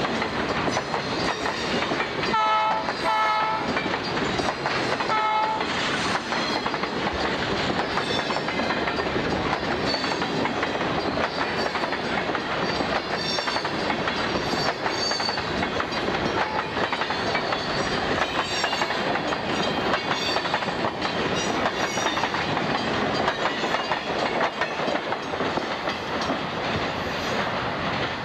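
Diesel locomotive horn sounding two short blasts in the first few seconds, then a freight train rolling by with a steady rumble and clatter of wheels on rail and occasional high-pitched squeals.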